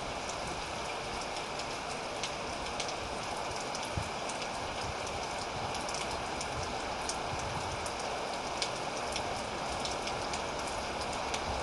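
Steady rainfall, an even hiss with many small drop ticks hitting a surface.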